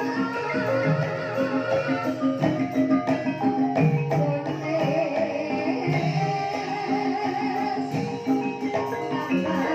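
Banyumasan gamelan ensemble playing a gending in the ebeg style: mallet-struck metallophones keeping a steady pulse, with a wavering melodic line above them.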